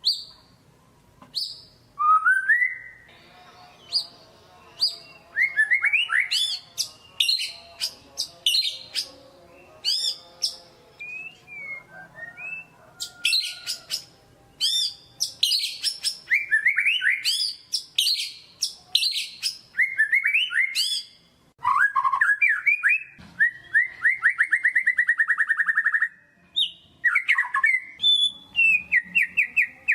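White-rumped shama (murai batu) singing a loud, vigorous ('gacor') song of varied whistles and sharp high chirps, with a fast run of evenly repeated notes about two-thirds of the way in. This full territorial song is what keepers play as a lure to set a caged shama singing.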